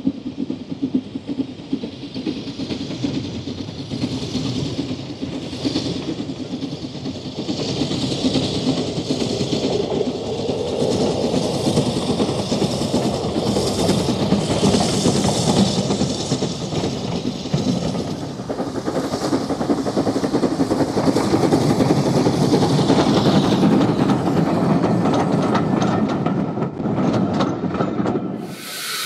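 A train running past on the rails, its wheels clattering over the rail joints in a continuous rumble with many short clacks. It grows to its loudest about three-quarters of the way through, then cuts off abruptly just before the end.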